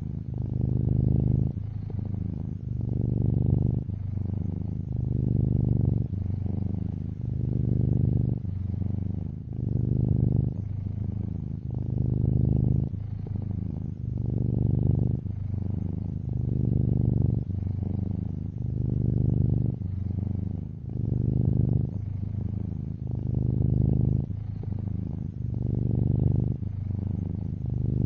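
Domestic cat purring close up, a low rumble that swells and eases about every two seconds as it breathes in and out.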